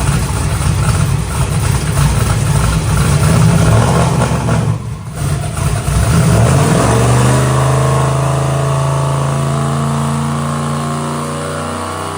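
Twin-turbo NASCAR truck engine running hard on the dyno during a two-step launch test, loud and rough, with a brief drop about five seconds in. It then settles into a steady drone whose pitch slowly falls. The crew judges the run a failure: the engine did not build boost properly with the dump-valve setting used.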